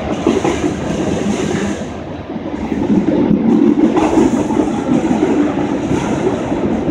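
Freight train cars rolling past at close range: a steady rumble and clatter of steel wheels on the rails, easing off briefly about two seconds in, then louder again.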